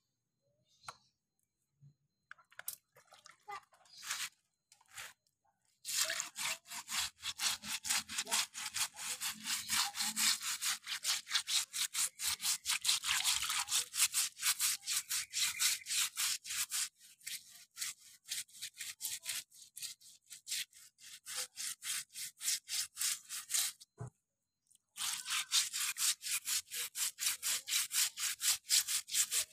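Stiff brush scrubbing moss off a slippery path in rapid back-and-forth strokes. The scrubbing starts about six seconds in, stops briefly near the end and starts again.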